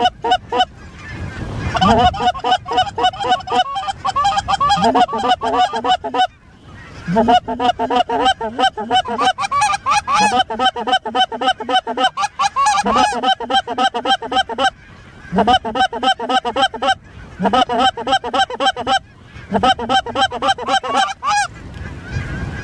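Goose honking and clucking: loud, fast strings of short honks in bursts, broken by brief pauses every few seconds.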